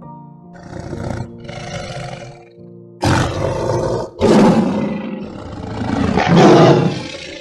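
An animal calling with rough, noisy calls: two short ones, then louder, longer ones from about three seconds in, over soft background music.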